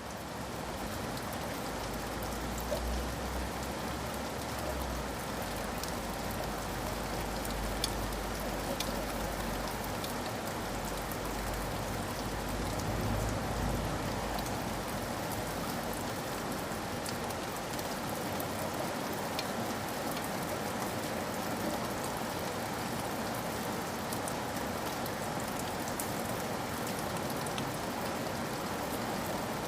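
Steady rain falling: an even hiss with scattered sharp ticks of individual drops. A low rumble underneath dies away about halfway through.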